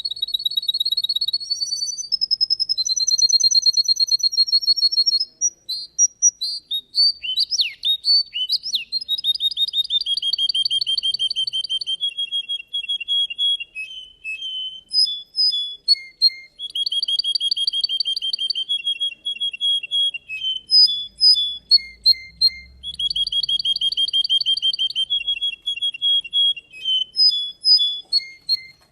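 Russian canary singing: long runs of rapid, high trills and rolling phrases, each held for a few seconds with short breaks between them.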